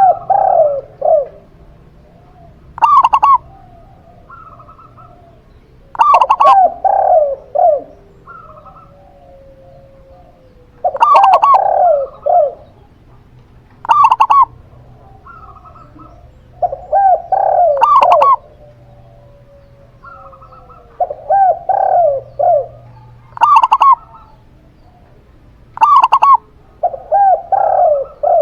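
Zebra dove and spotted dove cooing in turn. Loud phrases of short rolling coos come every three to five seconds, some beginning with a sharp, bright note.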